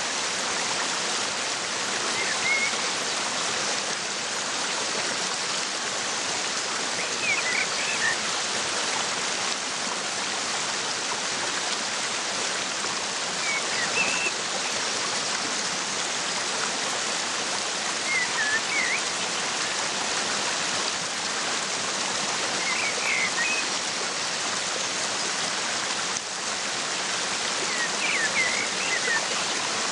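Waterfall rushing in a steady, even wash of water noise. A bird gives short clusters of high chirps about every four to five seconds over it.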